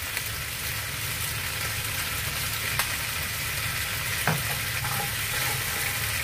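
Pieces of pork foot sizzling steadily in a frying pan as cooking wine is poured in, with a couple of sharp clicks; a spatula starts stirring near the end.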